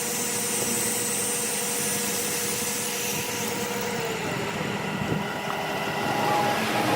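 A machine motor running steadily with a hum, its higher tone fading out about four seconds in.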